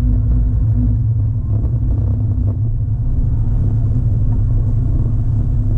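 Car engine and road rumble heard inside the cabin of a classic sports car being driven at a steady pace: a loud, steady low drone with no change in revs.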